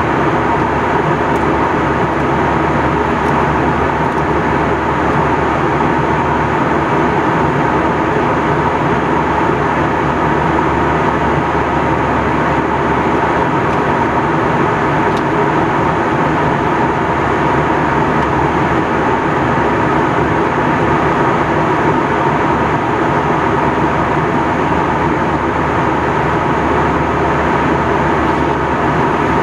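Steady cabin noise of an Airbus A321 airliner in flight: a constant rush of air over the fuselage with a steady hum, unchanging throughout.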